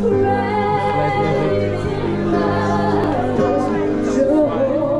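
Live band music with singing: voices sing over held bass and keyboard notes without a break.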